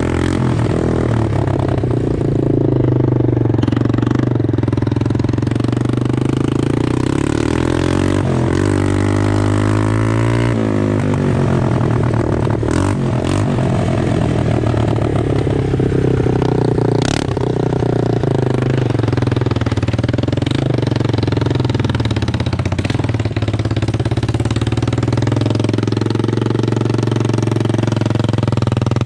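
Yamaha Moto-4 200 ATV's single-cylinder four-stroke engine running straight-piped with its rotted muffler removed. It is very loud, running steadily and revved up and down a few times, with a couple of sharp cracks in the middle.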